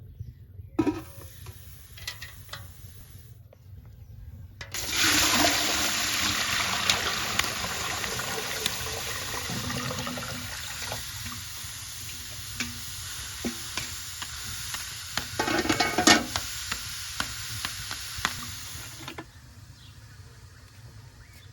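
Water pouring in a steady stream for about fourteen seconds, starting and stopping abruptly, with a few knocks of handling along the way, the loudest near the end of the pour.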